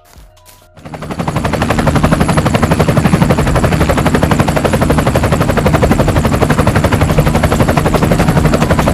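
A loud, rapid rattle of sharp pops in quick succession, starting about a second in and cutting off abruptly near the end.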